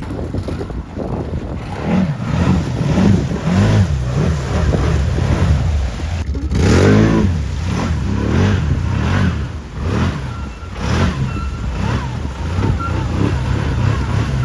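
A vehicle engine revved up and down over and over, its pitch rising and falling about once a second, with the biggest rev about halfway through.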